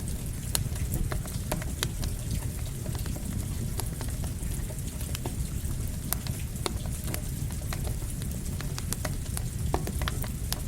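Campfire crackling, with irregular sharp pops and snaps, over a steady bed of rain and a low rumble.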